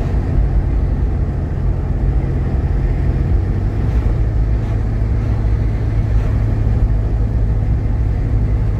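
Steady low drone of a Jeep Grand Cherokee's 3.7-litre V6 and road noise heard from inside the moving vehicle, with the engine's hum settling a little lower about three seconds in.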